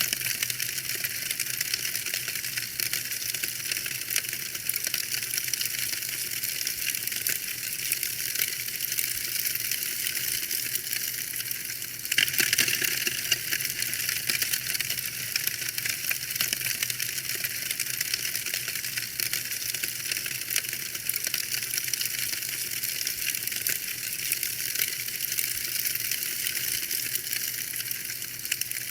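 Fire in a fireplace crackling: a dense, continuous patter of small pops and snaps. It gets a little louder for a moment about twelve seconds in.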